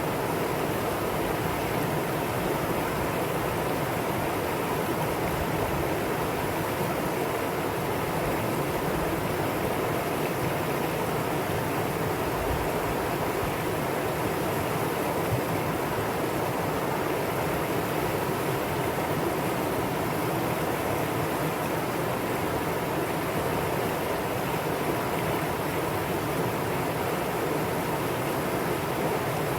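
Mountain valley stream, water rushing steadily over rocks.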